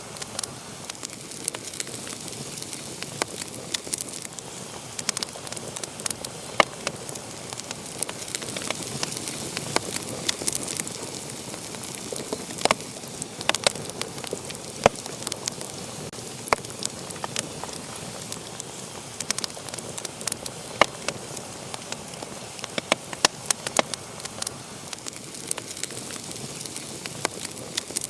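Wood fire burning with a steady hiss and frequent sharp, irregular crackles and pops.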